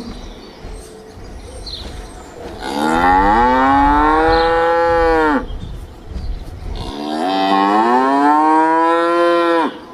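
A cow mooing twice: two long calls, each a few seconds long, rising in pitch and then dropping off at the end, with a short gap between them.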